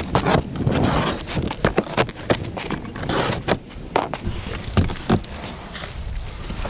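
Packaging being handled while unboxing an exhaust kit: irregular rustling and scraping, with many sharp knocks and clicks as cardboard and parts are moved about.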